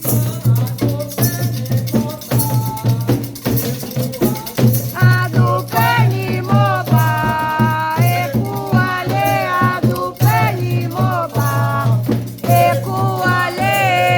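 Candomblé ritual song: voices singing a melodic chant over a rattle shaken steadily in rhythm.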